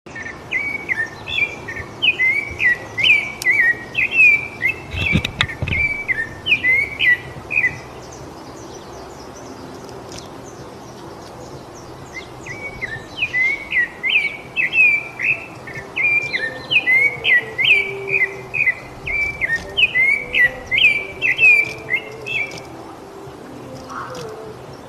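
Rufous-bellied thrush (sabiá-laranjeira) singing: two long bouts of quick, varied whistled phrases with a pause of a few seconds between them. A brief low thump comes about five seconds in.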